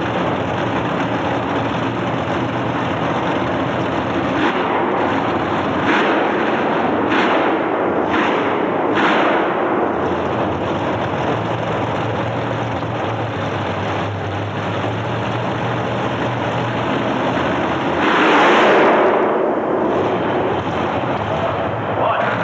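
Racing truck engine running hard at full throttle, with several sharp cracks between about four and nine seconds in and a louder surge near the end.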